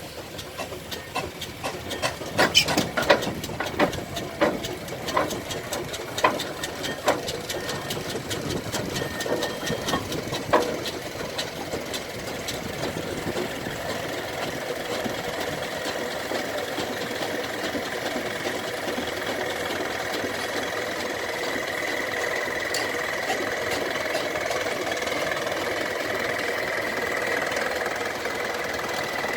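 Steam traction engine running on the road: a string of sharp, irregular knocks over the first ten seconds or so, then a steadier mechanical running sound with a thin high tone building toward the end.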